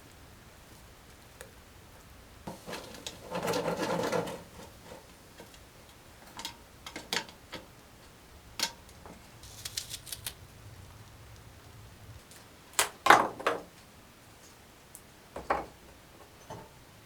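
Scattered clicks and knocks of small objects being handled, with one longer scraping sound about three seconds in and a loud cluster of knocks past the middle.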